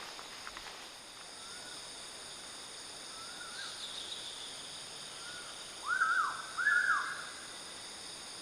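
A bird calling a few times softly, then twice louder about six and seven seconds in, each call rising and falling in pitch, over a steady high chorus of insects.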